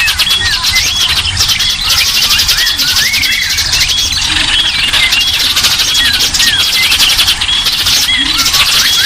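Chorus of small wild songbirds chirping and whistling, with many short whistles that swoop up and down over a dense, rapid high-pitched buzz.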